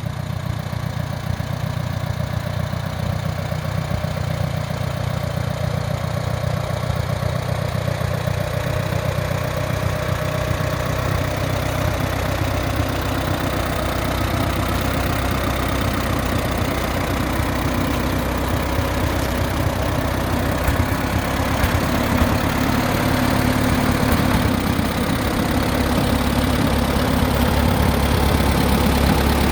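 Allis-Chalmers WD45 tractor engine idling steadily, growing gradually a little louder over the stretch.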